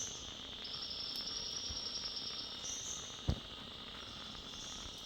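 Insect chorus in a tropical forest: a steady high buzz, with a second, higher trilling call that comes in about half a second in and carries on. A single short knock about three seconds in.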